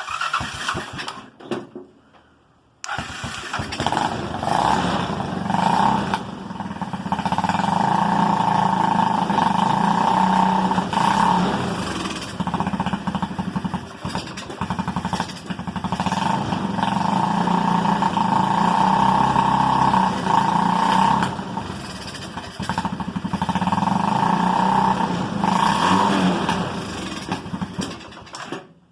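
Honda 200cc single-cylinder engine in a home-built buggy cold-starting on a freezing day after being primed: a few short sputters, then it catches about three seconds in and runs, revved up and down in several long swells, through a gutted go-kart muffler.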